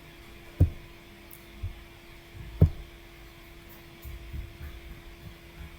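Steady low hum, broken by two sharp low thumps about two seconds apart and a few softer knocks near the end.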